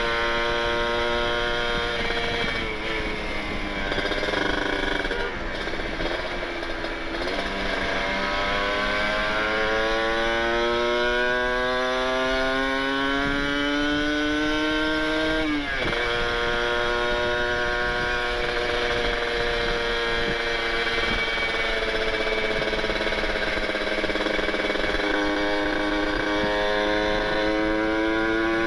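Kawasaki Ninja 150RR's two-stroke single-cylinder engine running through an aftermarket Aitech carbon-kevlar exhaust with an R9 expansion chamber, ridden on the road. The pitch dips after a couple of seconds, then climbs in a long steady pull, falls sharply about halfway through as the rider shifts up, and climbs again near the end.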